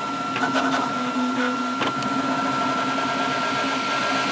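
Flashforge Adventurer 5M 3D printer running a PLA test print: a steady fan whine under stepper motors whirring as the print head moves, their pitch shifting with each move, with a few short clicks. The fast moves are shaking the workbench it stands on.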